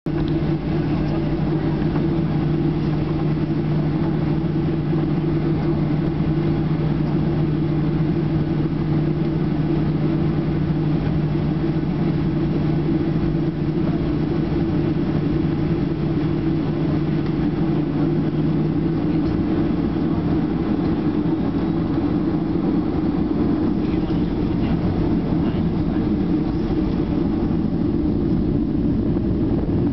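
Cabin noise inside a Boeing 737-800: a steady hum from the jet engines at low, unchanging power, mixed with the rush of cabin air. A low tone in the hum fades out about two-thirds of the way through.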